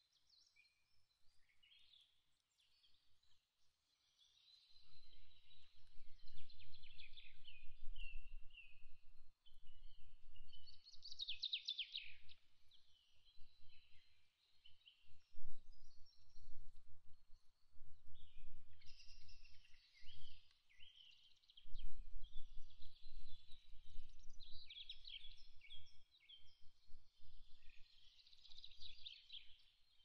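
Small birds chirping and twittering in quick, overlapping calls, with a low rumble that comes and goes from about four seconds in.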